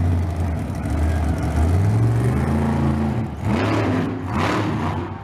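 Large monster truck engine running with a deep steady drone, then revving with rising pitch about two seconds in, followed by two louder, rougher surges.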